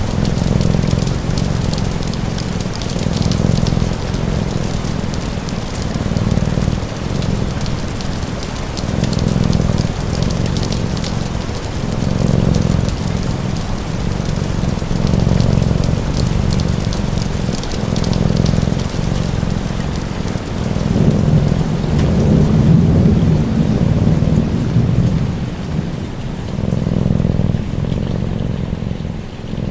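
Steady rain with fine crackling ticks, over a cat's low purr that swells and fades about every two to three seconds.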